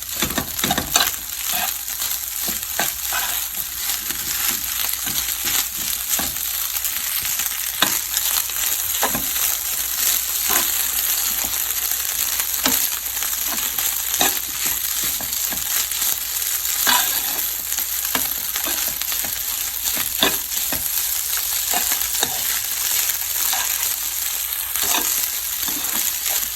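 Fried rice with crab sticks sizzling in a hot pan while it is stirred and tossed. The spatula scrapes and taps against the pan at irregular intervals over a steady sizzle.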